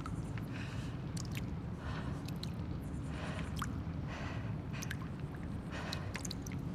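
Abandoned-building ambience: a steady low rumble under soft, irregular swishes about once a second, with scattered sharp little clicks.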